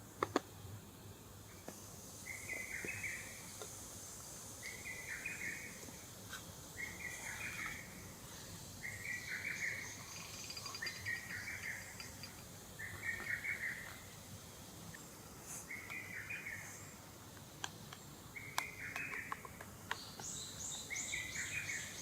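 A bird singing the same short phrase over and over, about once every two seconds, with a quicker, higher run of notes near the end.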